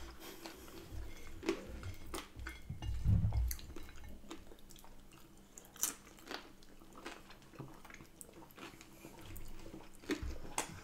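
A person chewing and biting food close to the microphone, with scattered wet mouth clicks and small crunches, and a louder low rumble about three seconds in.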